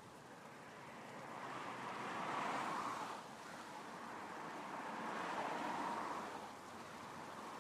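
Off-road vehicle working along a wet forest track, its engine and tyre noise swelling up twice and easing off, without any clear engine note.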